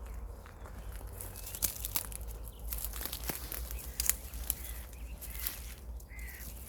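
Irregular rustling and crackling clicks, as of footsteps through dry meadow vegetation, over a low steady rumble, with a few faint short bird chirps.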